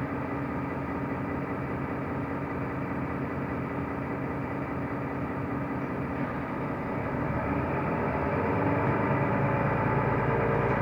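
Mercedes-Benz O345 Conecto LF city bus running, its engine and road noise heard from inside the cabin. The engine note shifts about six seconds in and grows louder near the end.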